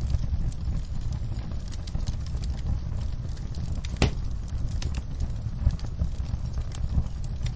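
Wood fire in a fireplace crackling: a steady stream of small pops and snaps over a low rumble, with one sharper pop about four seconds in.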